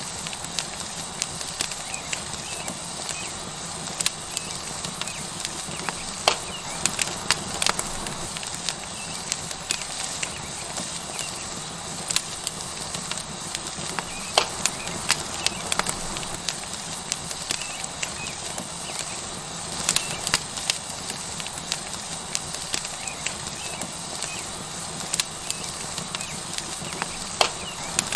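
Tomahawk steak sizzling on a hot rock over a wood fire: a steady sizzle with frequent irregular pops and crackles, some of them sharp and loud.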